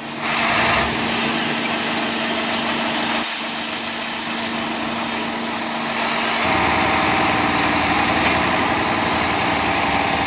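Heavy truck diesel engine running steadily. About six seconds in, the sound changes to a louder engine note with more noise.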